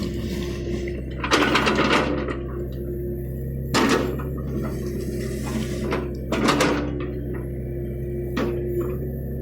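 John Deere excavator's diesel engine running steadily, broken by three loud rattling scrapes as the machine works: a longer one about a second in, a short one near four seconds, and another past six seconds.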